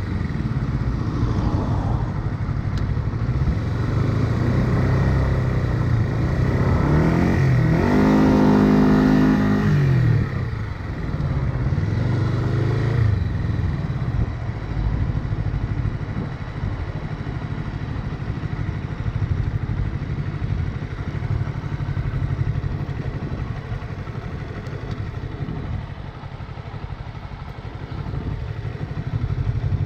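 1977 Honda CB125 twin's four-stroke parallel-twin engine under way, its revs rising and falling for the first dozen seconds or so. It then settles to a lower, steadier run.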